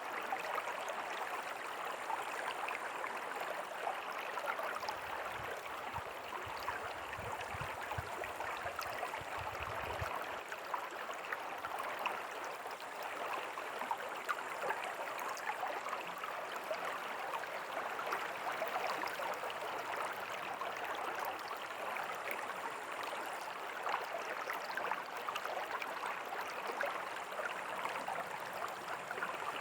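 River water flowing steadily: a continuous rushing with small crackling splashes. A low rumble rises underneath from about five to ten seconds in.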